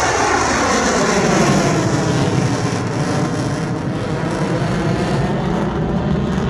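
F-16 fighter jet engine roaring loudly as the jet flies past, with a whine that slides downward in pitch as it goes by.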